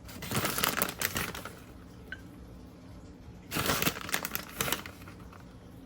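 Plastic bag of shredded cheese crinkling in two bursts about three seconds apart, as the cheese is handled and sprinkled.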